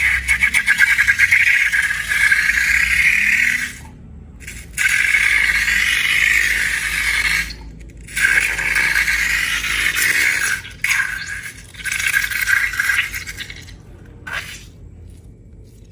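Rattling and scraping in five bursts of a few seconds each, with short pauses between them and dying away near the end.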